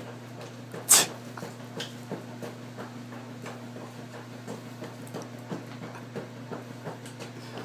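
Washing machine running: a steady motor hum under a quick, rhythmic knocking, with one sharp, louder knock about a second in.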